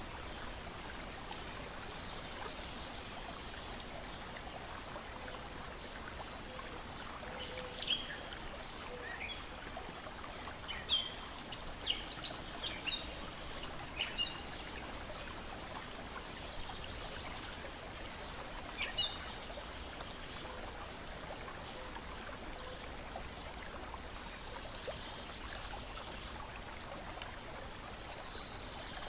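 Lake water lapping and trickling against the shore, a steady wash, with songbirds chirping in a cluster of short calls about a third of the way in and once more a little later.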